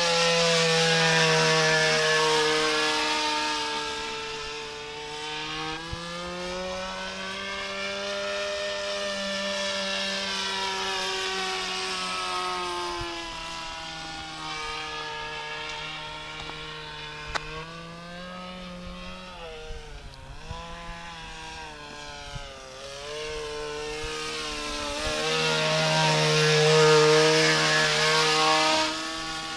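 Engine of a radio-controlled trainer airplane in flight, a buzzing drone that swells and fades and slides up and down in pitch as the plane flies past and away, loudest at the start and again near the end.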